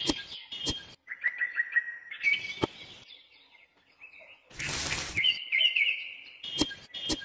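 Small birds chirping, with several sharp clicks scattered through and a brief loud rush of noise a little past the middle.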